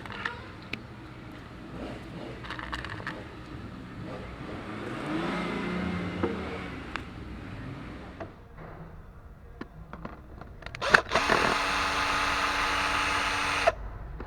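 Tool clicks and knocks, then near the end a power tool runs steadily for about three seconds and stops suddenly.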